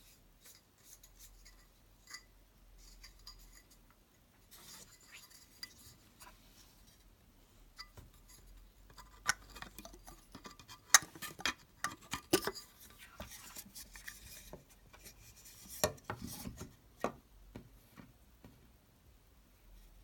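Scattered clicks, taps and scraping from small hard parts being handled and worked on by hand, busiest in the middle, with one sharp click about 11 seconds in. No fan is heard running.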